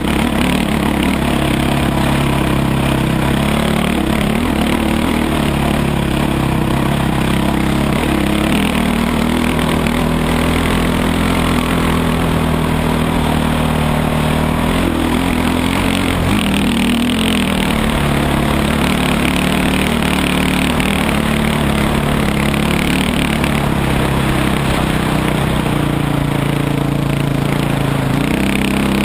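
Dirt bike engine running under way, its pitch rising and falling with the throttle, with a quick rise in revs near the end.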